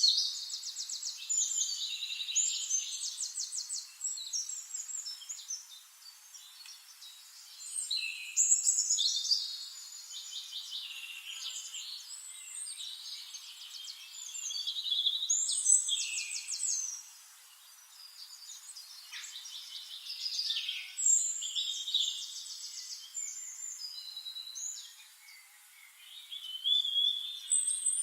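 Birds singing: high, rapidly trilled phrases come every five to seven seconds, with softer chirps in between.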